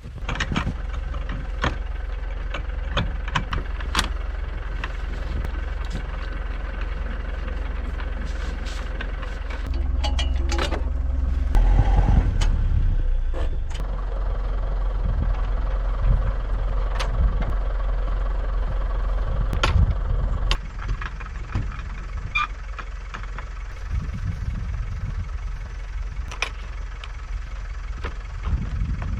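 Pickup truck engine running steadily, getting louder from about ten seconds in and settling back down about ten seconds later, with scattered knocks and clicks over it.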